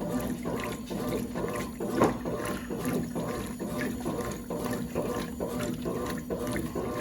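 Brastemp Clean washing machine agitating its load in water, sloshing back and forth at about two strokes a second over a steady motor hum, with one louder splash about two seconds in.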